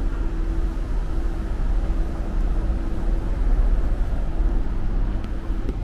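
Osaka Metro New Tram, a rubber-tyred automated guideway train, running: a steady low rumble with a steady hum.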